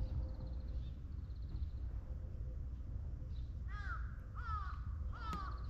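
A crow cawing four times in quick succession in the second half, over steady low background noise.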